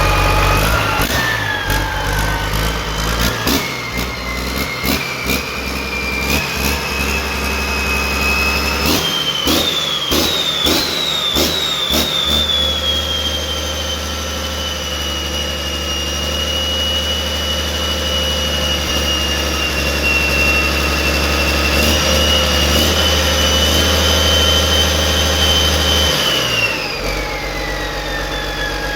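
Restored Yanmar engine running. About nine seconds in it is revved up in a few quick steps with sharp clicks, holds a steady high speed, then slows back down near the end.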